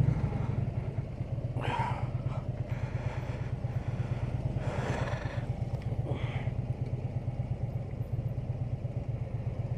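Harley-Davidson V-twin motorcycle engine running at low revs, with a steady, fast low pulse. A few brief hissing noises sound over it at about two, five and six seconds in.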